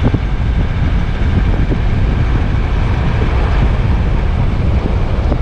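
Steady low rumble of a 4x4 vehicle running, its engine and road noise heard without a break.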